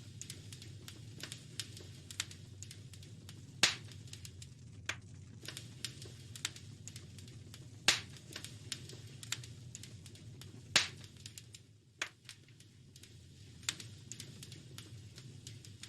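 Wood fire crackling in a fireplace: irregular small snaps over a steady low hum of the flames, with three louder pops spread through the middle of the stretch.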